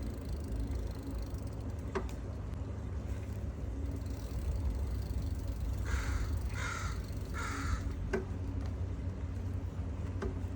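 Steady low wind rumble on the microphone from riding, with a bird giving three harsh, caw-like calls in quick succession about two-thirds of the way through. A couple of faint clicks.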